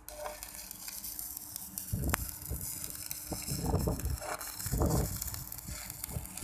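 Crackling, sizzling hiss of arc welding as worn crawler-crane track teeth are built back up with weld, with a few irregular low thumps and one sharp click.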